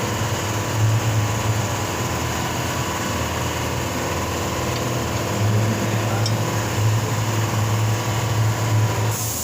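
Nissan Navara engine idling steadily, a low running note that wavers a little in strength.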